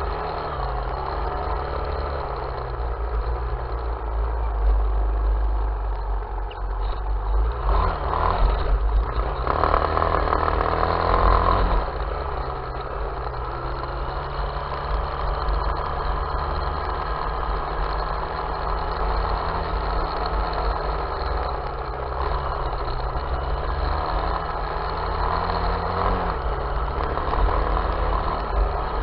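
Off-road vehicle engine running during a ride, its pitch rising with the throttle about a third of the way in and again near the end, over a heavy low rumble.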